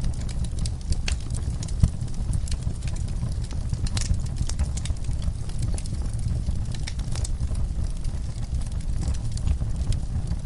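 Crackling fire with scattered sharp pops and clicks over a steady low rumble, one louder pop about two seconds in.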